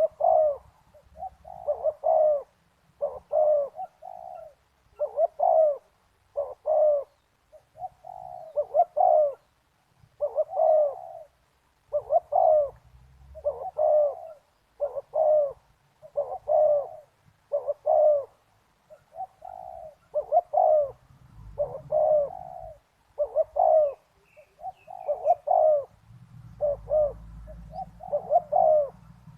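Spotted dove cooing over and over, short phrases of a few low coos repeating about every one to two seconds.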